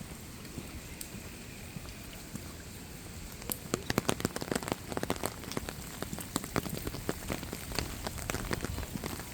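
Rain falling, with a steady hiss at first; about three and a half seconds in, a dense, irregular patter of raindrops striking close by starts and keeps going.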